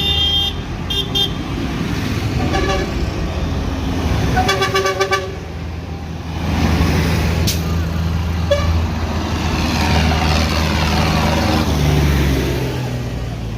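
Tractors and trucks passing in a convoy with engines running, sounding short horn toots. The toots come in the first half, one set in quick repeated pulses. A heavy low engine drone takes over from about the middle.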